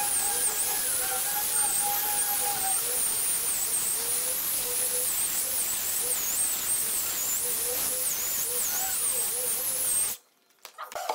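Handheld electric disc sander running over the face of an ebony slab: a steady high hiss of the pad on the wood with a high motor whine that wavers up and down. It cuts off suddenly about ten seconds in, leaving a few faint clicks.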